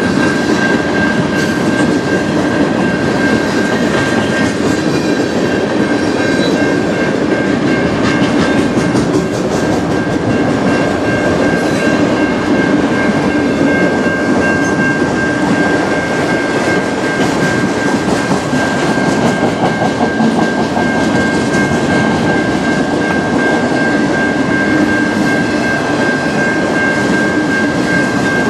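Freight cars of a passing manifest train (covered hoppers, then autorack cars) rolling by, their wheels clicking over the rail joints, with a steady high-pitched tone over the rumble.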